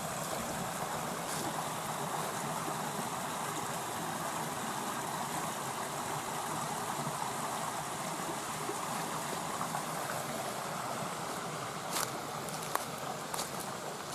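Creek water flowing steadily, a constant rushing of water. A few sharp clicks of footsteps on the trail come in near the end.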